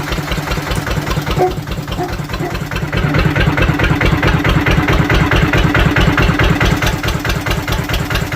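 Lister CS stationary diesel engine of a compressor set running steadily, with an even beat of firing strokes that grows louder about three seconds in.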